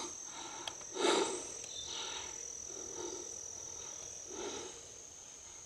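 Insects droning steadily in a swamp at one high pitch, with a few faint soft whooshes about a second apart.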